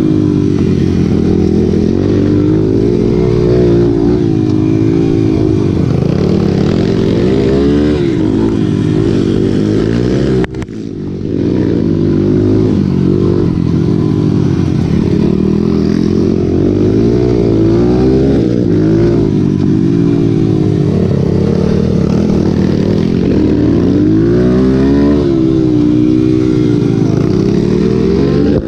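Several motorcycle engines racing together, their pitch rising and falling as the riders rev and shift. The sound breaks off briefly about ten seconds in.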